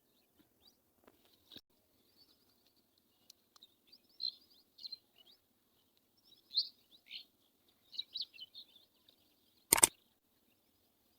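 Faint, scattered bird chirps, with a single sharp click near the end.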